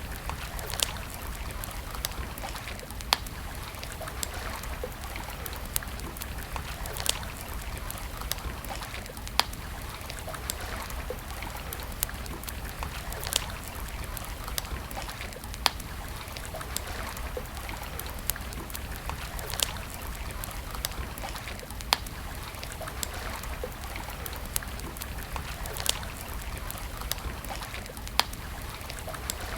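Campfire burning: a steady soft crackle and hiss with sharp wood pops every two to four seconds.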